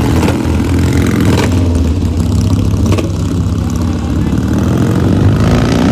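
Rickman Metisse motorcycle engine running steadily and loudly, close by.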